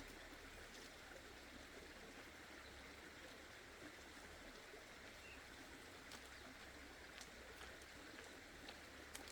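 Near silence: a faint, steady rushing hiss of outdoor background, with a few faint ticks.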